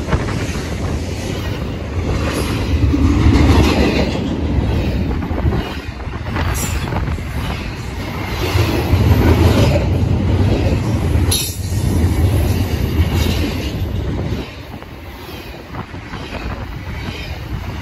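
BNSF double-stack intermodal freight train's loaded well cars rolling past close by: a heavy, continuous rumble of steel wheels on the rails that swells and eases, with a couple of brief high wheel squeals, about six and a half and eleven seconds in.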